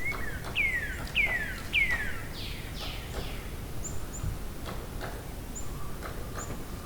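Wild birds singing: a run of clear whistled notes, each sliding down in pitch, repeated about every half second and loudest in the first two seconds. Later come short, very high chips, over a steady low outdoor background noise.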